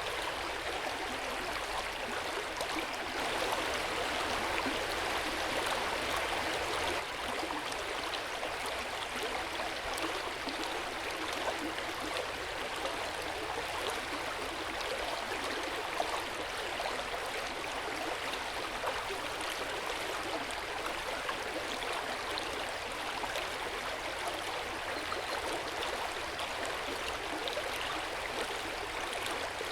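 Hot-spring water running steadily into an open-air bath, a continuous gurgling flow that is a little louder a few seconds in.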